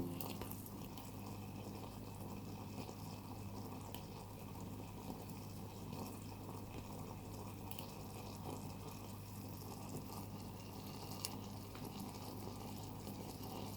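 Faint bubbling of a tiny pot of rolled cabbage simmering, with a few small ticks over a low steady hum.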